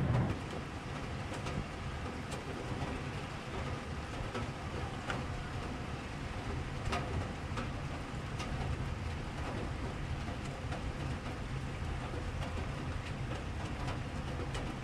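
Steady downpour during a thunderstorm, a constant hiss of rain with scattered sharp ticks of drops striking nearby surfaces and a low rumble underneath.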